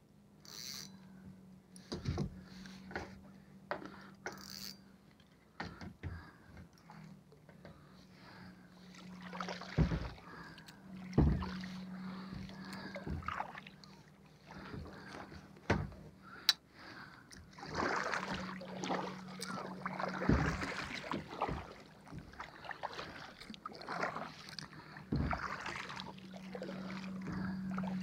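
Water sloshing and splashing around a kayak, with scattered knocks on the hull and a steady low hum throughout. The water sound is busiest about two-thirds of the way through.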